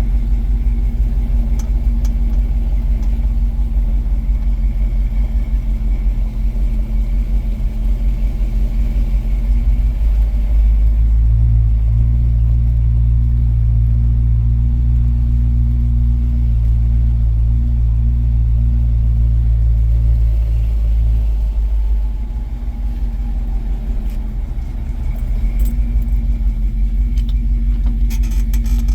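1973 International Harvester Scout II engine idling while it warms up after a cold start on the choke. The idle steadies, then deepens and grows louder for about ten seconds before easing back, and a few clicks come near the end.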